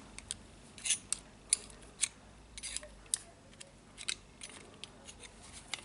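Light, sharp metal clicks and taps, a dozen or so at uneven intervals, from small parts of a jigsaw motor being handled and worked on during disassembly.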